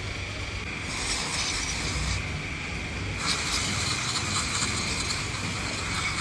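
A Mercedes OM651 four-cylinder diesel engine running, with a steady high whine and a hiss that grows louder about a second in, eases a second later, and swells again from about three seconds in.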